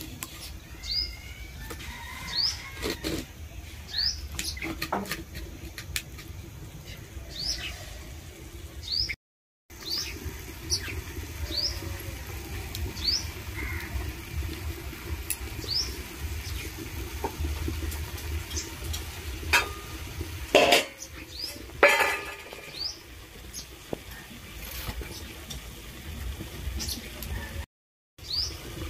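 Small birds chirping in short, repeated calls about once a second, with a few sharp knocks, the loudest two about two-thirds of the way through.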